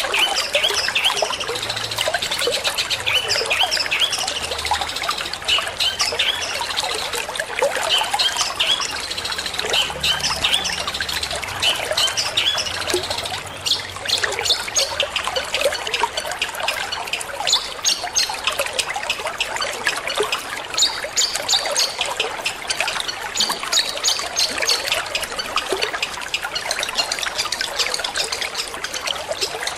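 Long-tailed shrike (cendet) singing in rapid runs of short, sharp notes over continuous trickling water.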